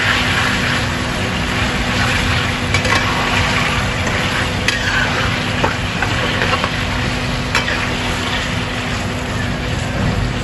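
Chicken frying in hot oil with onions in a pan, a steady sizzle, as it is stirred with a utensil that knocks against the pan now and then. A steady low hum runs underneath.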